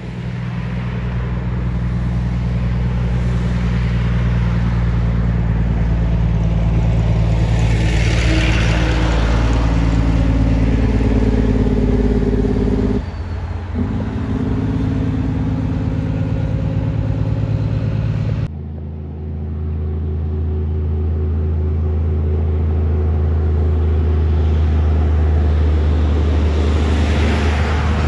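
Kenworth trucks' diesel engines running, with a rush of noise as one passes about a third of the way in. The engine sound changes abruptly twice, at about halfway and about two-thirds of the way through.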